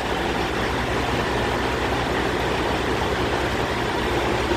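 Heavy diesel truck engine idling steadily, a low even rumble with a constant rushing noise over it.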